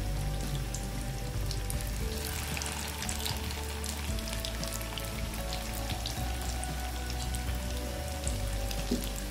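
Chicken shami kabab patties sizzling as they shallow-fry in a few tablespoons of hot cooking oil in a frying pan, with a steady, fine crackle of small spattering pops.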